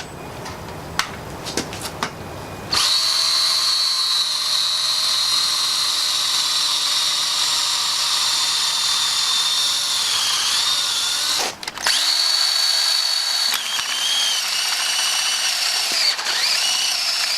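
A few light clicks, then a power drill starts about three seconds in and runs at speed with a steady high whine, boring through the centre of an engine mount bracket to free it. It stops briefly past the middle, then runs again with its pitch sagging several times as the bit bites under load.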